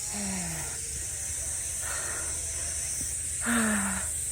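Steady, high-pitched buzzing of a cicada chorus, with a couple of short, heavy voiced breaths from someone out of breath after climbing uphill in the heat.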